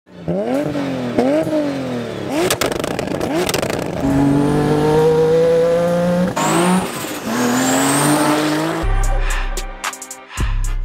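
2JZ inline-six engine of a manual-swapped Toyota MK5 Supra accelerating through the gears: the pitch climbs and drops back at each shift, then holds high and climbs again with a faint high whistle over it. In the last two seconds deep booms and sharp cracks take over.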